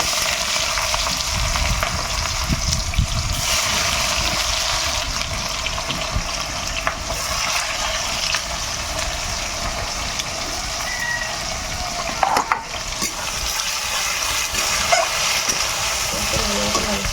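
Sliced onions frying in hot oil in a kadai, a steady sizzle throughout, with a few short scrapes and knocks of the stirring spoon.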